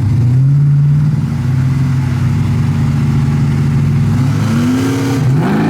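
Drag racing car engine held at a steady, loud high idle, then revving with rising pitch in the last second or so as noise spreads across the top.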